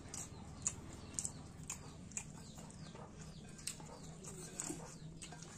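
Close-miked eating sounds of curry and rice being chewed: a run of irregular wet clicks and lip smacks over a faint steady hum.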